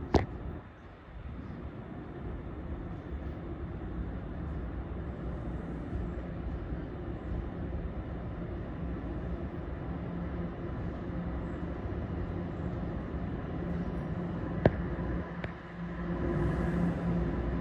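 TTC Line 1 subway train standing at the platform, its equipment giving a steady hum, with two sharp clicks about 15 seconds in.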